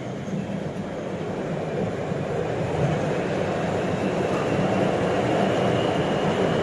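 Metro train running, heard from inside the carriage: a steady rumble and rush of wheels and air that grows gradually louder, with a faint whine slowly rising in pitch in the second half, as the train picks up speed.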